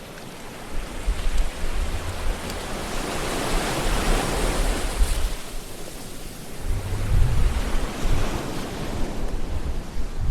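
Ocean waves washing and surging, swelling to a peak about four seconds in and again near eight seconds, with a low rumble underneath.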